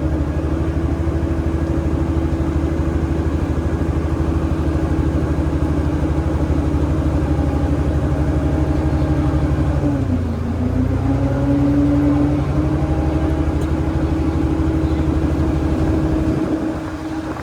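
Tour boat's engine running steadily; about ten seconds in its pitch dips briefly and then picks back up, and the low hum drops away near the end.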